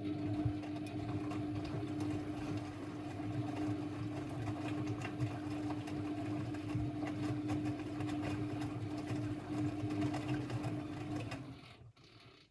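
Constructa Energy 1000s washing machine running: a steady motor hum at one unchanging pitch over a low rumble, which dies away about a second before the end.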